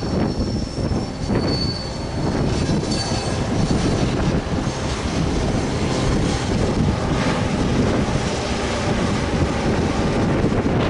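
Grain train hauled by two CBH class diesel locomotives approaching and passing, a steady rumble of engines and wheels on the rails. A thin, high-pitched wheel squeal sounds over the rumble in the first few seconds.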